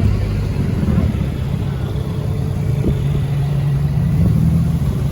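A car engine running steadily with a low, even-pitched drone.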